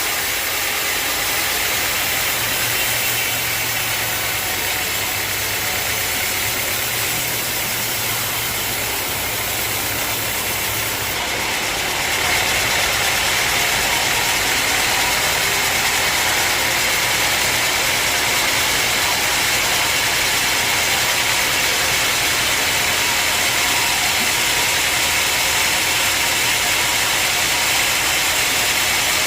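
Sawmill machinery running steadily; about twelve seconds in the sound steps up, louder and harsher, and stays that way.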